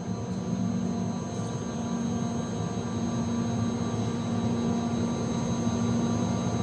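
York chiller running: steady drone of its condenser fans and machinery, with a low hum and a thin high whine.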